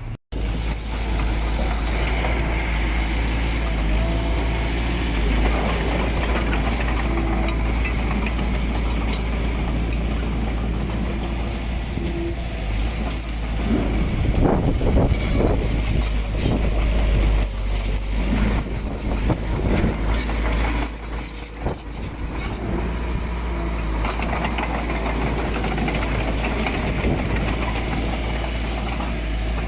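Heavy diesel earthmoving machinery running steadily under load, with a busy stretch of metallic clanks and rattles in the middle.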